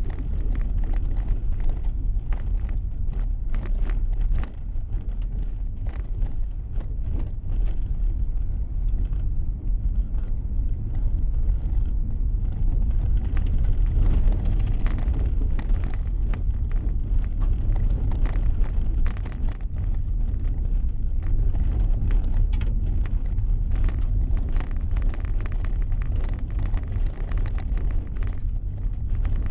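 Steady low rumble of a car driving on the road, heard from inside the cabin, with frequent small irregular clicks and ticks over it.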